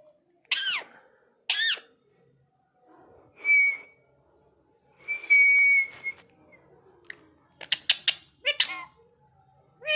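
Indian ringneck parakeet calling: two short screeches that fall in pitch, then two steady whistled notes, the second held about a second, followed by a quick chattering run and more short calls near the end.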